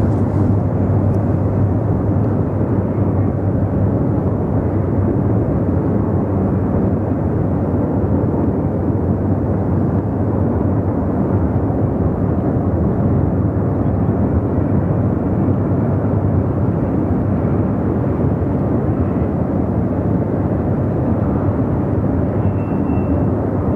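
CSX intermodal freight train rumbling steadily as it runs along the river shoreline, a deep, even rumble with no breaks.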